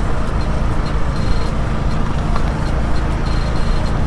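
Bajaj Pulsar NS200 single-cylinder engine running steadily as the motorcycle is ridden, with wind rushing over the helmet-mounted camera's microphone. Short high beeps repeat faintly through it.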